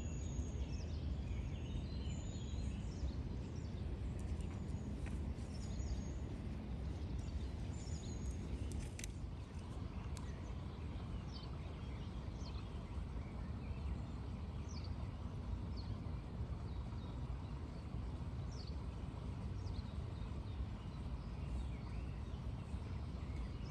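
Outdoor ambience: a steady low background rumble with short, high bird chirps repeating every second or two, some of them quick falling notes.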